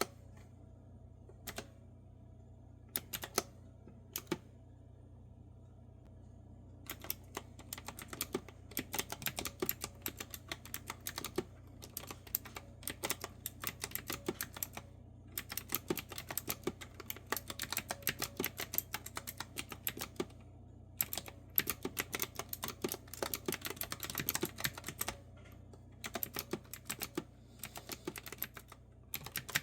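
Clicky retro-style keyboard with round keycaps being typed on: a few scattered single keystrokes at first, then steady runs of typing from about seven seconds in, broken by short pauses.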